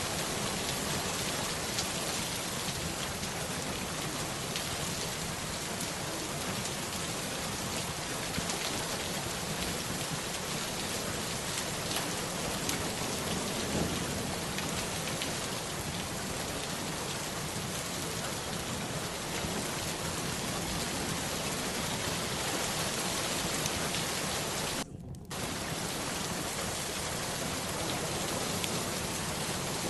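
Steady rain falling on surfaces, a continuous even hiss of drops that briefly cuts out for a fraction of a second about three-quarters of the way through.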